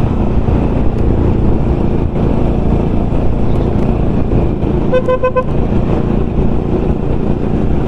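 Steady rumble of a motorcycle ride, engine and wind noise on the microphone. About five seconds in, a vehicle horn gives one short toot of about half a second.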